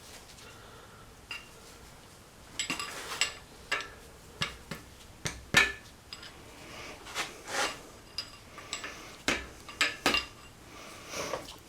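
Metal hand tools clinking and clanking against a Saab 9000 engine short block in irregular knocks, one louder clank about halfway through, while working at a stuck balance shaft.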